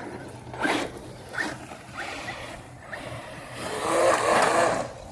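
Mojave 4S RC desert truck driving on dirt: several short throttle bursts, then a longer, louder run near the end.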